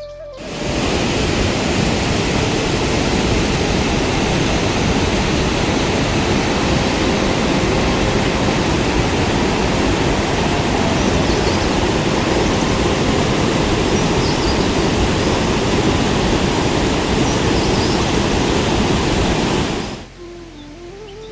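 Loud, steady rush of water, like heavy rain or a fast stream, that starts abruptly just after the beginning and cuts off sharply about a second before the end.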